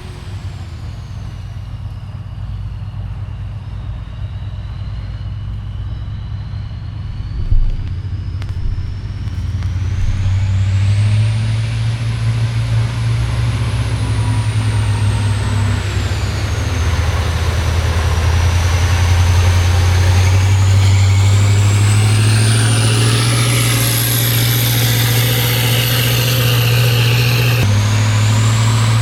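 Heavy off-road competition truck's diesel engine working hard, growing louder about a third of the way in, with a high whistle that rises and falls in pitch. A single knock sounds once early on.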